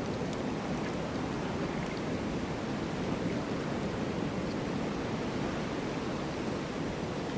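Snowstorm wind blowing steadily: an even, unbroken noise with no distinct gusts.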